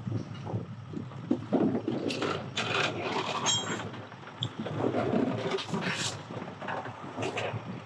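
Irregular metal clanks and scrapes, with a brief metallic ring about three and a half seconds in, over a low rumble and wind on the microphone.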